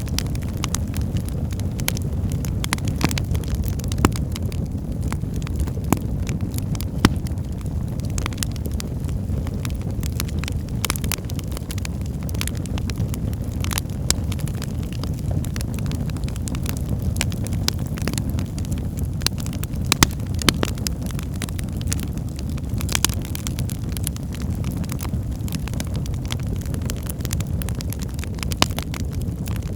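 Wood fire burning in a fireplace: a steady low rumble of the flames with irregular crackles and occasional louder pops of burning logs.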